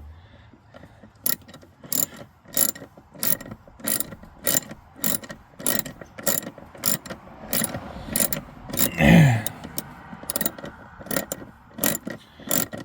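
Hand ratchet clicking in a steady rhythm, about one click every half second or so, as it drives in the blower motor's mounting screws. One louder, brief sound that drops in pitch comes about nine seconds in.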